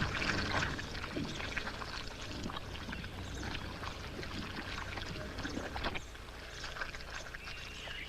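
Wet mud and shallow water sloshing and squelching in a run of irregular splashes as a wildebeest struggles, stuck in the mud of a drying swamp. The splashing thins out about six seconds in.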